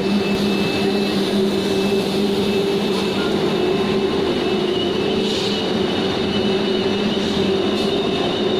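A machine running steadily: a constant hum with a higher thin whine, unchanging in level.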